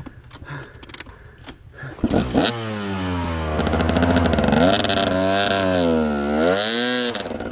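Dirt bike engine catching about two seconds in, then revved up and down several times.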